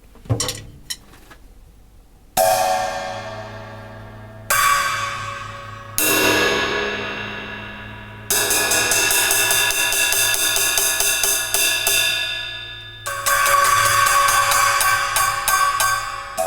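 Cymbals struck and left to ring during a sound check: three single crashes about two seconds apart, each dying away, then a longer stretch of ringing and faster repeated strokes near the end.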